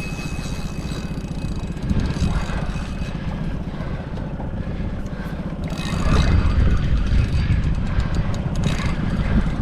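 Boat engine running steadily, growing louder about six seconds in.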